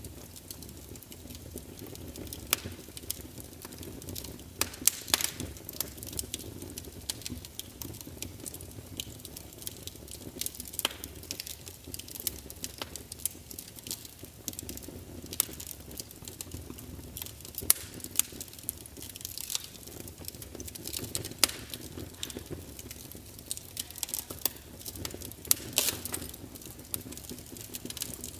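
Wood fire crackling: irregular sharp pops and snaps over a steady low rustle of burning logs.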